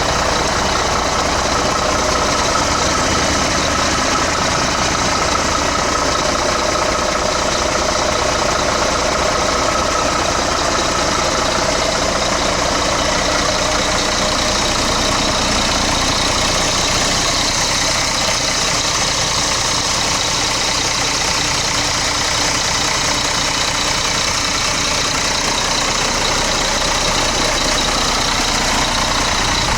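Scania G380's 11.7-litre turbo-diesel engine with PDE unit injectors idling steadily.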